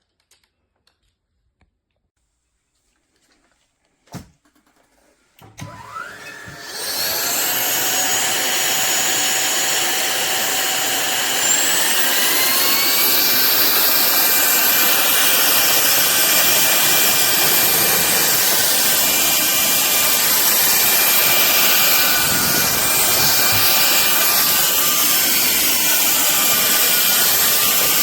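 SunSare cordless stick vacuum: a click about four seconds in, then the motor starts and spins up to a loud, steady high whine. Partway through, its pitch steps up and then holds steady.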